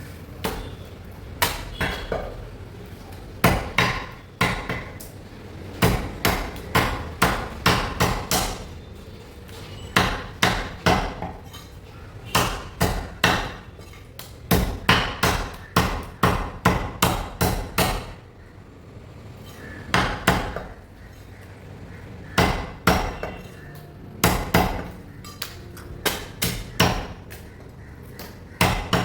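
Butcher chopping raw chicken on a chopping block: sharp chops in quick runs of several strokes, with short pauses between the runs.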